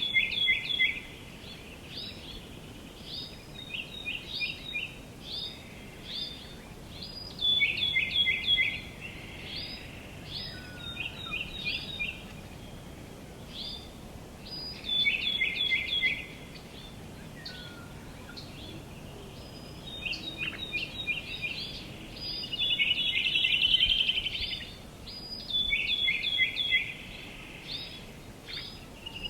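Small songbirds chirping in repeated quick bursts of high notes every second or two, with a faster, louder chattering run near the end, over a faint steady outdoor hiss.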